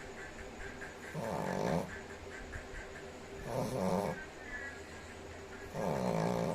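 Shih Tzu snoring in its sleep: three snores roughly two seconds apart, each lasting under a second.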